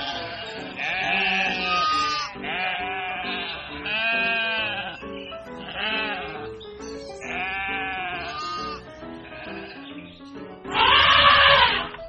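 Farm animals bleating, about six wavering calls in a row, the loudest near the end, over background music.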